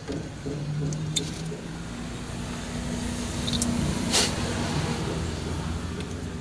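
Mitsubishi T120SS engine idling steadily, fitted with a used original MAP sensor that is being tested. A brief rustle or knock is heard about four seconds in.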